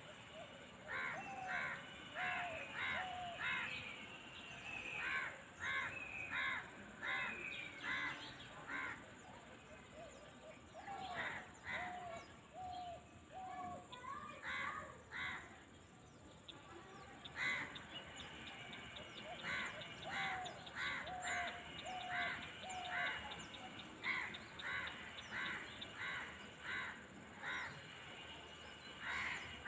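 Crows cawing in runs of repeated harsh calls, about two a second, in three bouts, over a faint steady high-pitched hum.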